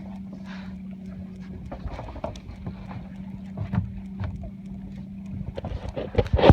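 Wind rumbling on the microphone aboard a small sailboat under way, with a steady low hum and scattered clicks and knocks. The noise grows louder near the end.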